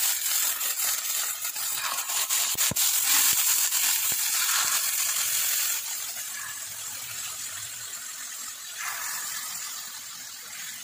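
Yogurt-marinated chicken pieces sizzling in hot oil in a frying pan as they are laid in one after another, with a few sharp pops in the first few seconds. The sizzle eases off about halfway through, swells again briefly, then settles lower.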